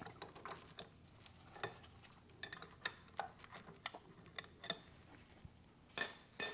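Irregular light metallic clicks and clinks of hand tools and metal fuel-line fittings being handled, with two louder ringing clinks near the end.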